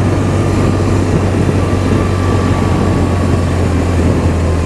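Motorcycle engine running at a steady speed with a low, even drone, and wind rushing over the helmet microphone.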